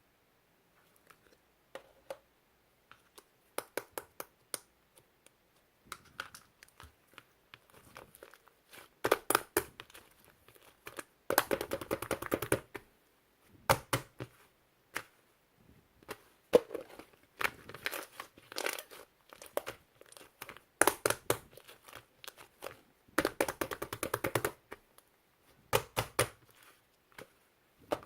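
Slime being squeezed and stretched by hand, giving scattered popping clicks and several longer bursts of dense crackling.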